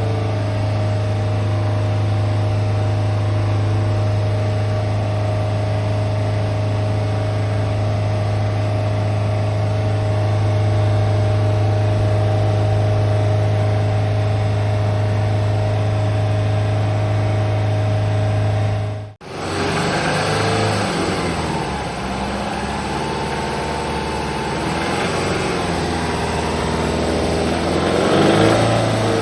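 Exhaust note at the muffler outlet of a 2003 Subaru Legacy BP5 2.0GT's turbocharged flat-four, first idling steadily with a low even drone. After a cut about two-thirds of the way in it changes to a running section where the pitch wavers and rises, as with light revving. The owner judges that the exhaust outlet does not carry the engine's abnormal noise.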